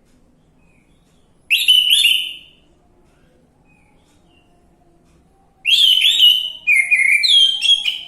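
Orange-headed thrush singing: a short phrase of whistled notes about a second and a half in, then a longer, varied phrase of rising and falling whistles from about five and a half seconds on.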